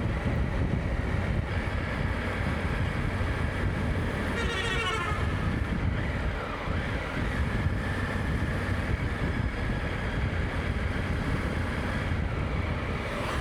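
Steady wind rush on the microphone with engine and road noise from a moving motorcycle. A brief warbling sound comes about four seconds in.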